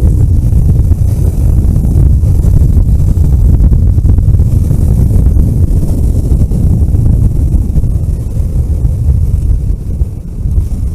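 A vehicle travelling on a road: a loud, steady low rumble of engine and road noise with wind buffeting the microphone, easing slightly near the end.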